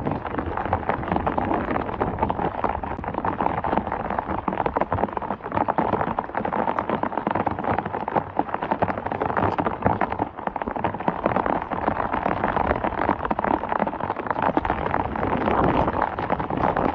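Heavy rain falling: a steady hiss thick with small drop hits.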